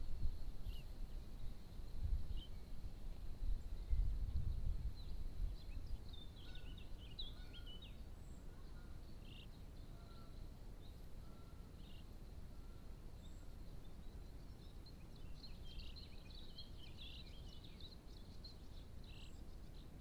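Faint, scattered high-pitched bird chirps and peeps, in two clusters, over a quiet outdoor background; a low rumble fills the first few seconds and then dies away.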